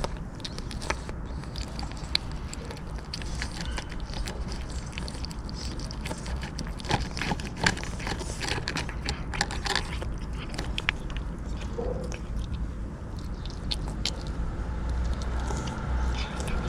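A street cat eating, its chewing heard as many irregular sharp crunching clicks over a steady low rumble.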